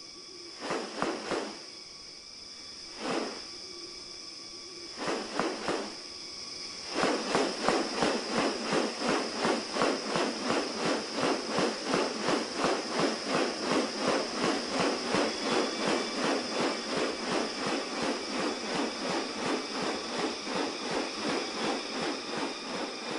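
New Guinea rainforest ambience: a steady high-pitched insect drone, with a few scattered rasping calls, then from about seven seconds a fast, even series of rasping pulses at about two to three a second.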